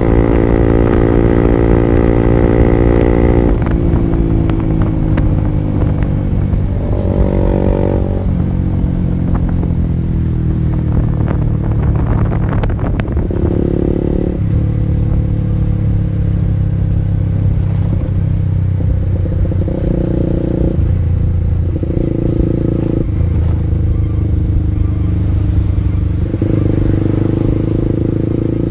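Honda CB150R's single-cylinder engine through an R9 Alpha Series aftermarket exhaust while riding: held at steady revs at first, the revs fall away about three seconds in, then step up and down several times through the rest.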